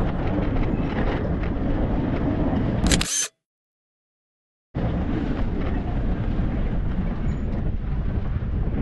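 Steady outdoor street background noise with no speech. About three seconds in, a sharp click, then the sound drops out completely for about a second and a half before the noise resumes: a break in the recording.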